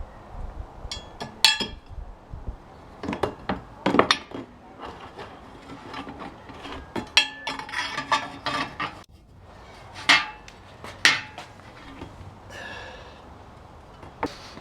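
Irregular sharp knocks and clinks of tools and parts being handled while a chipper shredder is put back together. The loudest knocks come about a second and a half in, around four seconds, and twice around ten to eleven seconds.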